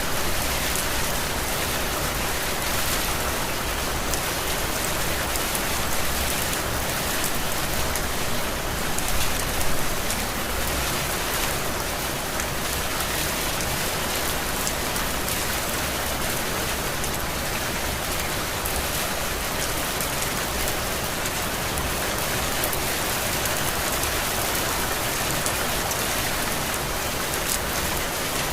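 Heavy rain falling steadily, with drops pattering on a surface. There is a brief swell in loudness about nine seconds in.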